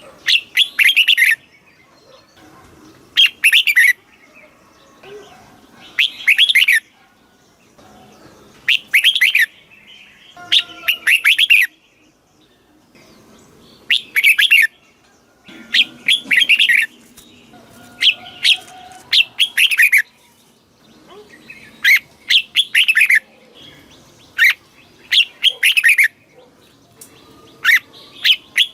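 Red-whiskered bulbul singing: about a dozen short, warbled phrases, each a second or less, repeated every two to three seconds.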